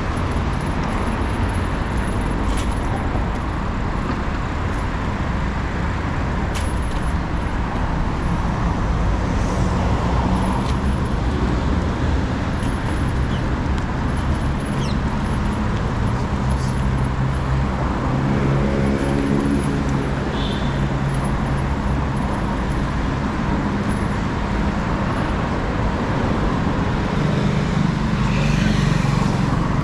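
City street traffic: a steady noise of passing cars, with one vehicle's engine passing close about two-thirds of the way through.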